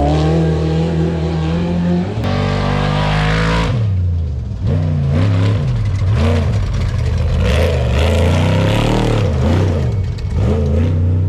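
Off-road trophy truck engines at racing speed. A steady held note changes abruptly about four seconds in to engine pitch repeatedly rising and falling as the throttle is worked on and off over rough ground.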